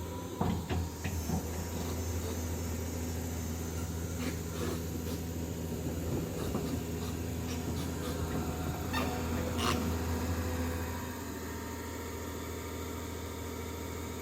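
A heavy machine's engine running under load with scattered knocks and clanks, easing to a steadier, quieter run about eleven seconds in.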